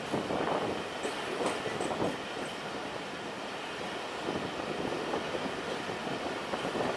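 Pakistan Railways passenger coaches rolling slowly through a station, heard from the coach window: a steady rumble of wheels on track with irregular clatter over the rail joints. A few short high squeaks come between about one and two and a half seconds in.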